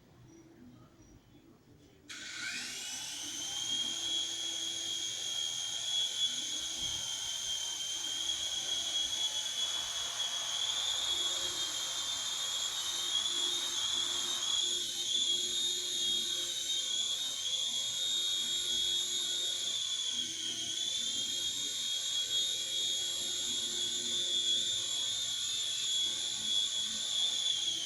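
Miniature model helicopter's motor and rotor starting up about two seconds in, its whine rising quickly to a steady high pitch that holds with slight wavers.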